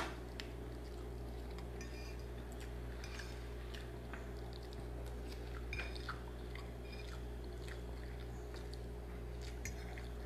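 Faint, close-up chewing and small mouth clicks of someone eating instant noodles with sardines, over a steady low hum.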